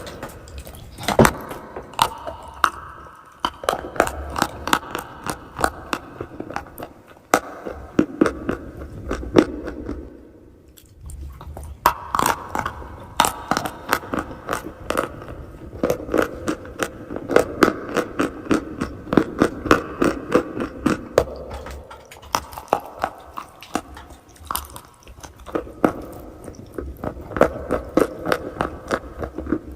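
Close-miked biting and chewing of crunchy chalk and clay: a dense run of sharp crunches and crackles, with a brief lull about ten seconds in.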